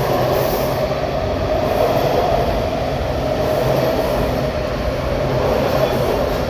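Washington Metro Red Line train moving along the station platform, a steady loud rumble of wheels and traction motors.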